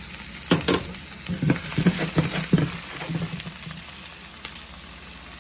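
Chopped scallion and red onion sizzling in hot oil with garlic and ginger in a frying pan, while a spatula stirs them. The stirring makes a run of knocks and scrapes against the pan in the first half.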